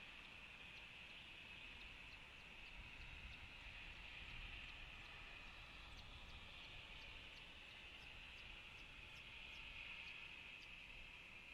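Faint outdoor insect chorus: a steady high drone, with short high chirps repeating about twice a second over it.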